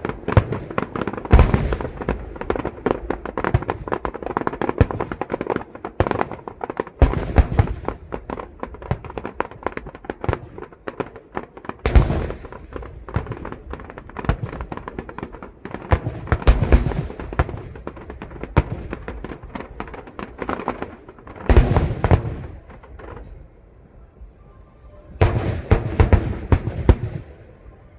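Aerial fireworks display: continuous crackling and popping of shell bursts, with heavier volleys of loud bangs recurring every few seconds.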